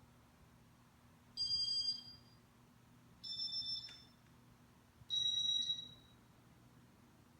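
Three short electronic beeps, each over half a second long and a little under two seconds apart, over a faint low steady hum.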